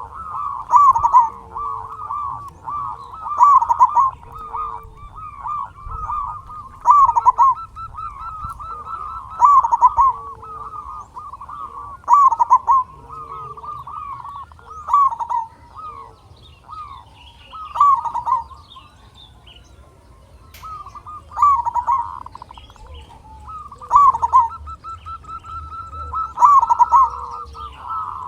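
Zebra dove (perkutut) cooing: phrases of quick, clipped notes repeated every second or so, easing off briefly past the middle and then picking up again.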